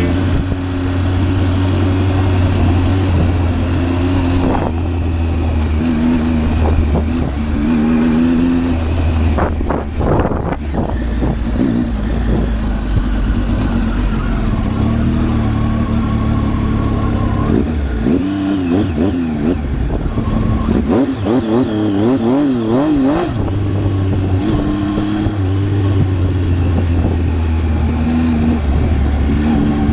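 Triumph Tiger 800's three-cylinder engine running while the bike is ridden, its note rising and falling with the throttle and gear changes, with a stretch of quick up-and-down revs about two-thirds of the way through.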